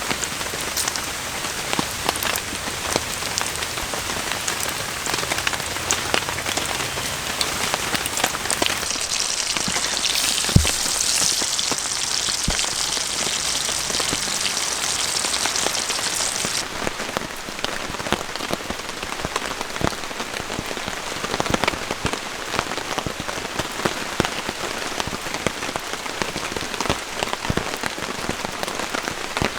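Steady rain falling, with many individual drops pattering close by. From about nine seconds in to about sixteen seconds, a stronger high hiss rises over the rain and then stops suddenly.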